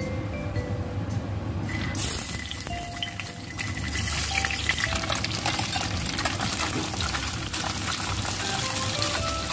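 Slices of tofu frying in hot oil in a wok. The sizzle starts abruptly about two seconds in as the tofu goes in, and goes on as a steady hiss with light crackling.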